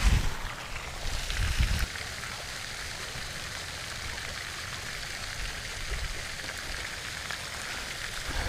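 Steady, even hiss of outdoor background noise, with low rumbling on the microphone for about the first two seconds.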